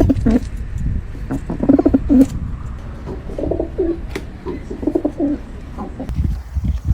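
A bird calling in short, low, pitched calls that come in groups every second or two, over a steady low rumble.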